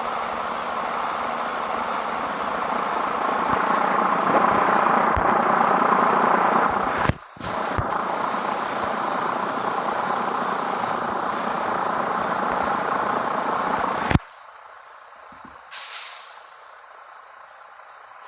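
Scania 113 truck's engine and exhaust running loudly and steadily, with a brief dip about seven seconds in, then stopping abruptly about fourteen seconds in. A short high air hiss follows, like an air brake releasing.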